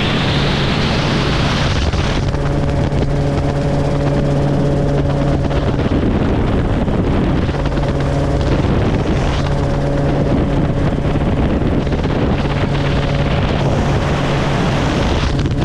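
Helicopter in flight heard from on board: a steady engine and rotor hum with a strong rush of wind over it. The hum fades for a moment about six seconds in, then returns.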